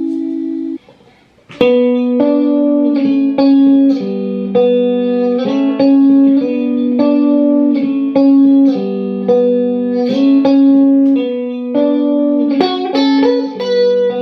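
Harley Benton ST-62 Strat-style electric guitar playing a melodic phrase of plucked notes and double stops. A held chord rings and is cut off just under a second in, and after a short pause the phrase begins about a second and a half in.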